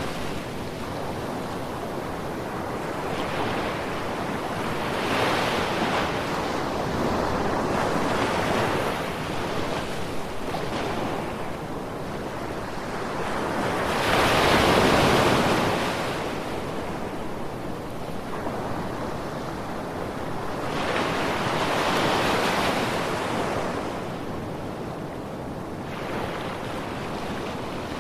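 Sea waves breaking and washing ashore in a steady rushing surf, swelling and ebbing every few seconds. The biggest wave comes about halfway through, with smaller surges before and after it.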